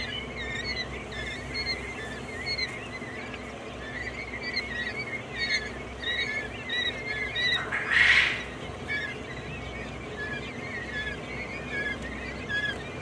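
A flock of quail chirping, with many short calls overlapping and repeating. About eight seconds in there is one louder, harsh burst of noise lasting under a second.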